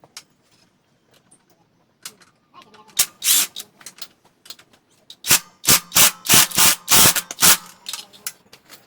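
A series of rasping, scraping strokes on metal, about three a second, after one longer stroke about three seconds in.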